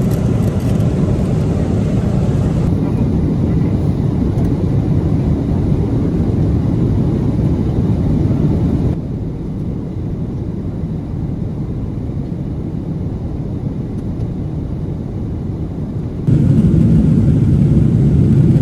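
Steady low rumbling roar of a Boeing 777-300ER airliner cabin, the noise of engines and airflow. It drops and rises abruptly about 3, 9 and 16 seconds in, quietest between about 9 and 16 seconds.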